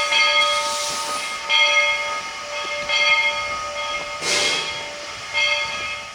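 Bridgton and Saco River #7 narrow-gauge steam locomotive hissing steam in repeated bursts over a steady high-pitched ringing tone.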